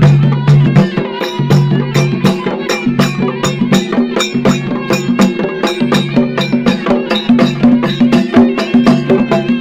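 Traditional folk music: fast, steady drum strokes over a sustained, reedy melody line.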